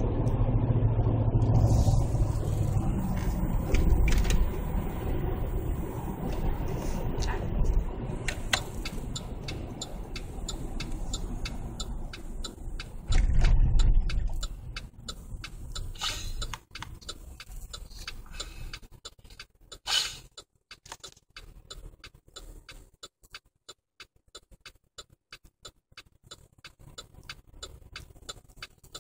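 2008 Chevrolet Tahoe V8 running through a Magnaflow aftermarket muffler, with a short rev about halfway. The engine sound then fades away, leaving a fast, even ticking.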